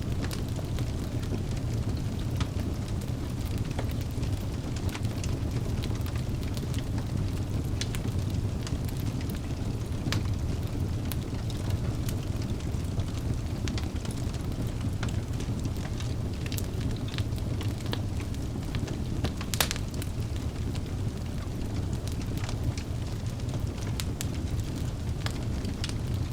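Wood fire burning in a fireplace: a steady low rumble with scattered crackles and pops, the loudest pop about two-thirds of the way through.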